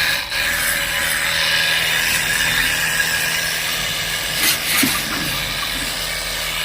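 A steady mechanical running noise, like a small motor, holding an even level, with a few brief louder sounds about four and a half seconds in.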